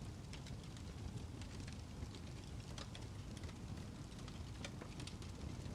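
Wood fire crackling in a fireplace: a steady low hiss and rumble with scattered small pops and snaps.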